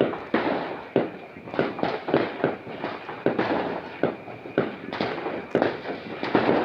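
New Year's fireworks and firecrackers going off: an irregular string of sharp bangs, two or three a second, over a continuous crackle.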